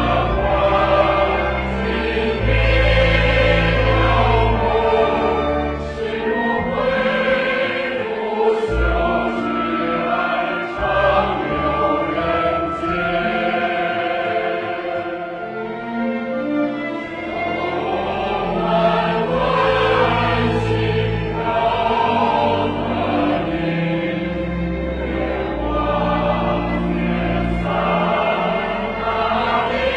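A choir singing over instrumental accompaniment with long, held bass notes.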